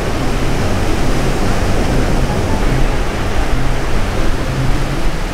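Ocean waves breaking and washing up the beach in a steady rush of surf, with wind rumbling on the microphone.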